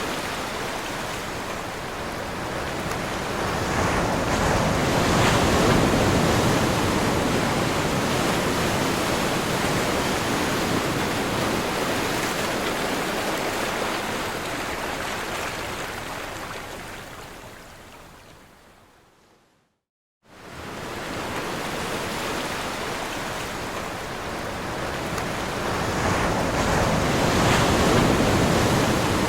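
Ocean waves breaking on a shore as a continuous rush of surf that swells and ebbs. About two-thirds of the way through, the surf fades away to a moment of silence, then cuts back in abruptly and builds again.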